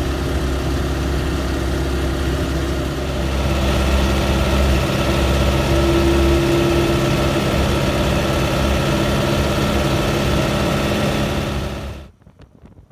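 Vintage Morris Minor Semi-Sports' small four-cylinder engine and drivetrain running steadily while the car cruises at about 30 mph, heard from inside the car. The sound cuts off abruptly about a second before the end, leaving faint wind noise.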